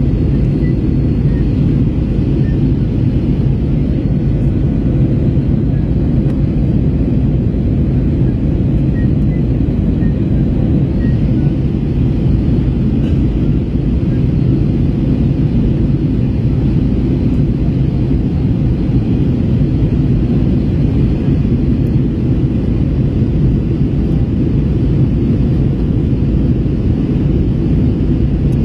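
Steady low rumble of an Airbus A321 in flight, engine and airflow noise heard from inside the passenger cabin, during the descent toward landing.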